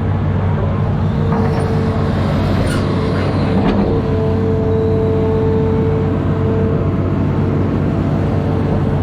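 An amphibious excavator's diesel engine running steadily, with a steady whine above it. A few faint knocks come between about one and four seconds in.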